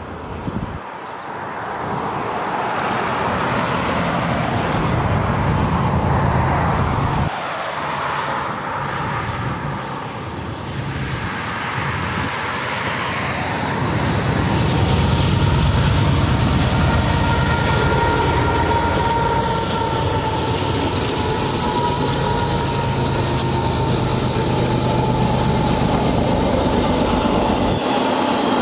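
Union Pacific GE C44AC diesel locomotives pulling a double-stack intermodal train grow louder as they approach and pass close by. The double-stack well cars then roll steadily past, with a high, steady wheel squeal over the second half.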